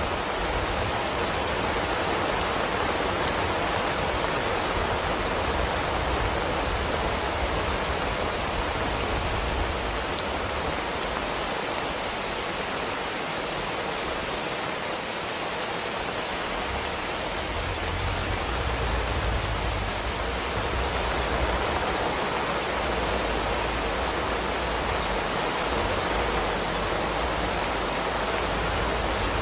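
Steady rain falling, an even hiss throughout with a low rumble that drops away for a few seconds around the middle.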